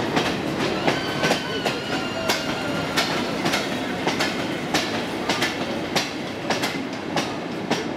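A moving train's wheels clicking over rail joints, irregular sharp clicks about twice a second over a steady rumble, with a few thin wheel squeals in the first half.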